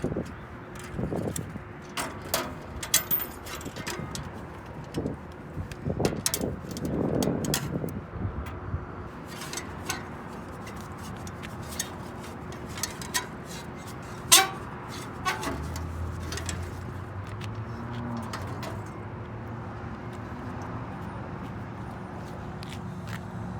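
Scattered clicks and knocks of hand work on a machine, over a faint steady tone. A low steady hum starts about two-thirds of the way through and keeps on.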